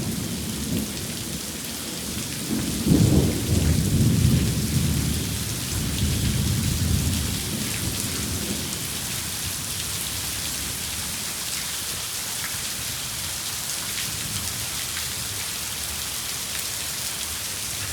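Heavy rain falling steadily in a thunderstorm. About two and a half seconds in, a peal of thunder rolls in and rumbles for several seconds before dying away, leaving only the rain.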